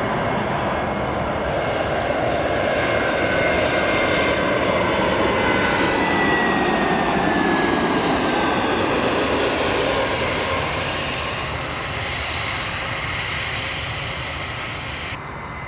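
Jet airliner's engines roaring as it passes, with a whine that falls in pitch, the roar easing off near the end.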